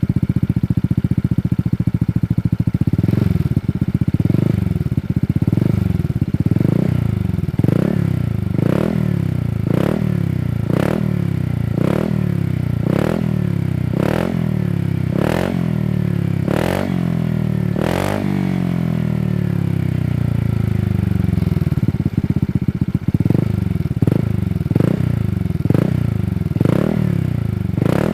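Honda Vario 160 scooter's single-cylinder engine running through a Shijiro Racing Opel 1 aftermarket exhaust. It idles, then is blipped over and over, revving up and dropping back a little more than once a second. The blips pause for a few seconds of idle about two-thirds of the way through, then resume.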